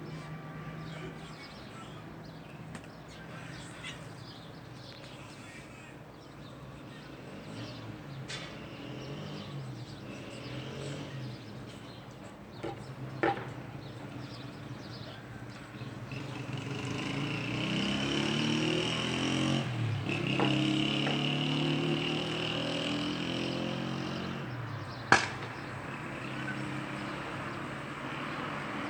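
Cats yowling and growling at each other in a drawn-out fight standoff, long low wavering calls that grow louder and thicker in the second half, with two sharp knocks.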